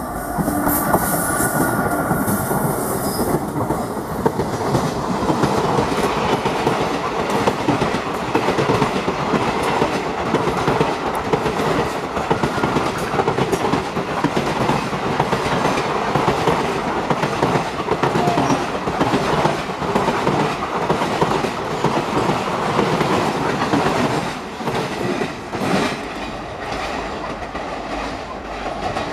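Passenger express behind a WAP-4 electric locomotive passing at speed, its coach wheels running with a steady clickety-clack over the rail joints and points. The sound eases slightly near the end.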